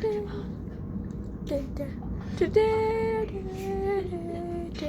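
A girl singing a few long held notes that step downward in pitch, over the steady low rumble of a moving train.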